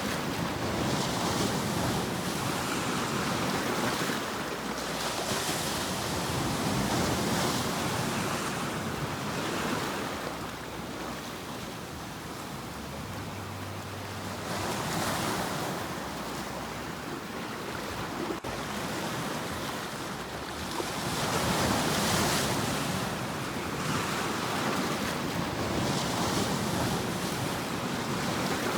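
Ocean waves breaking and washing on a shore, a steady rush of surf that swells and eases every few seconds, with some wind.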